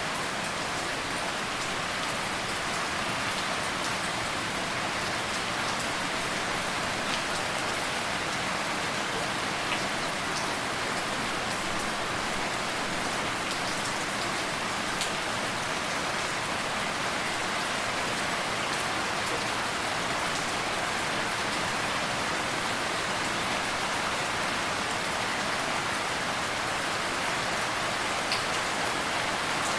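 Steady rain falling on a surface, an even hiss with a few distinct drops ticking now and then.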